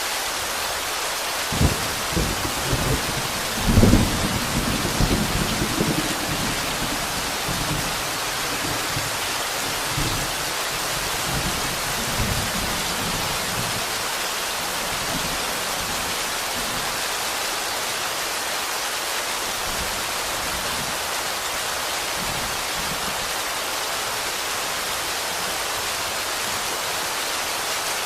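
Steady rain hiss with a crackling thunder clap that builds from about two seconds in, peaks about four seconds in and rumbles away over the next few seconds; two fainter rumbles follow around ten and twelve seconds.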